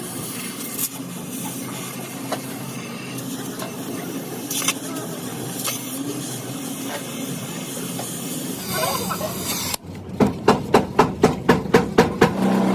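Steady hiss with a few scattered clicks, then, after an abrupt break near the end, a quick run of about nine sharp strikes at roughly four a second, like a hammer on metal during street car repair work.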